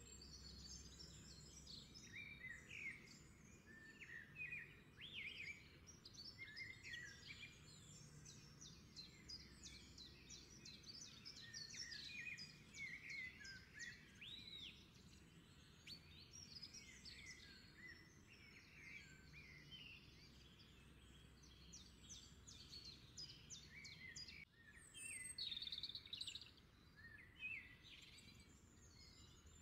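Faint birdsong: many birds chirping and calling in quick, overlapping phrases, a little livelier about three-quarters of the way through.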